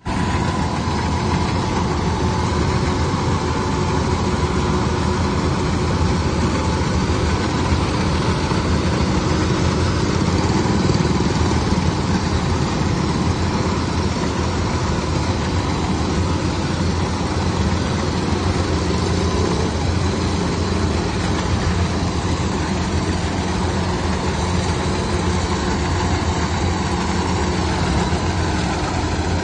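Engine of a harvesting machine running steadily at a constant speed, a continuous low drone with no changes in pitch.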